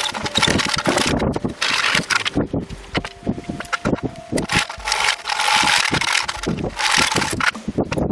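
A saw cutting through a length of wood in repeated strokes, each stroke a burst of rough noise with short pauses between.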